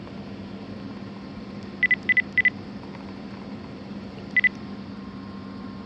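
Short high-pitched electronic beeps: three in quick succession, then a single one about two seconds later, over a steady low hum.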